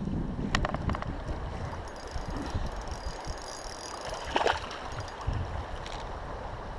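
Flowing river water and wind on the microphone, with a couple of brief knocks about half a second and four and a half seconds in.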